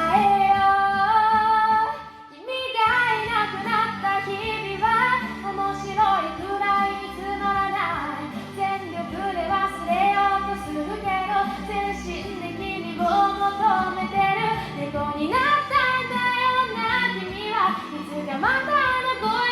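A woman singing a slow Japanese pop ballad over an instrumental backing track, with a short break between phrases about two seconds in.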